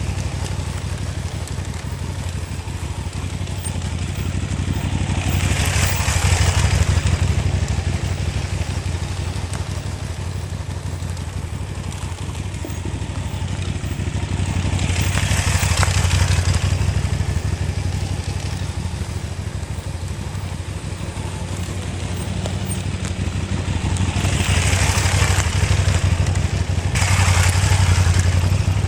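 Motorcycle engine running while riding, steady underneath and swelling and fading several times, with a rushing hiss at each peak.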